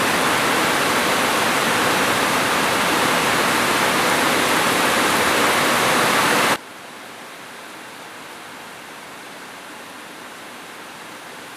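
Heavy rain falling on a roof as a dense, steady hiss; about six and a half seconds in it drops suddenly to a much quieter, steady rain.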